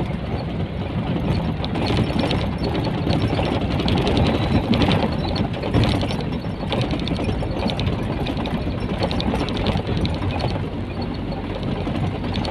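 Nissan Diesel container truck under way: the diesel engine's steady low hum with continual rattling and clattering of the truck's body and loose parts.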